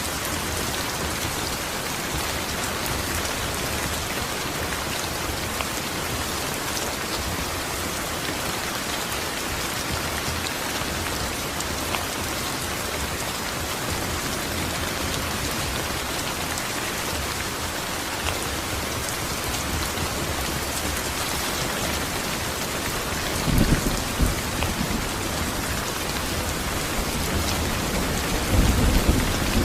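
Steady rain falling and pattering. Near the end, two short low rumbles of thunder rise above it.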